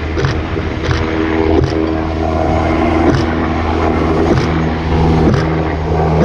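Military helicopter running: a steady, loud drone of engine and rotor with several held hum tones, crossed by short sharp clicks every second or so.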